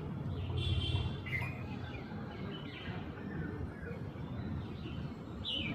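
Jungle babblers calling, a scatter of short calls with a louder, stacked call about a second in, over a steady low background rumble.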